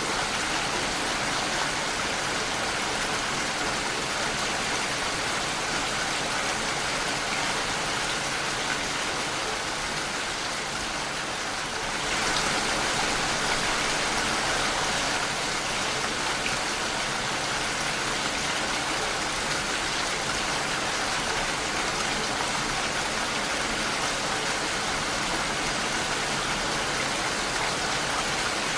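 Steady rain pattering against a window pane, an even hiss of drops that grows slightly louder about twelve seconds in.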